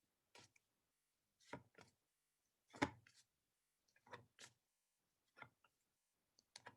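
Near silence broken by faint, short clicks and taps about once a second, one a little louder just under three seconds in: phonics sound cards being turned over one by one from the pack.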